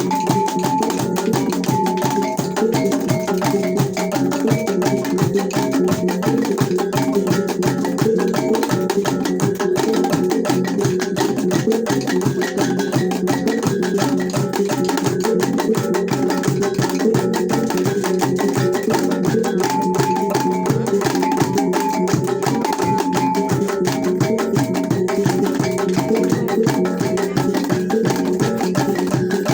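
T'boli traditional ensemble music: a fast, even percussive beat of wooden-sounding strokes under repeating pitched melodic notes, playing without a break.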